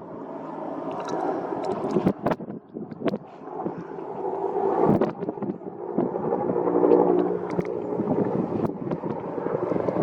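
Wind buffeting the microphone over the steady drone of a nearby aircraft engine, swelling and then easing about two thirds of the way through.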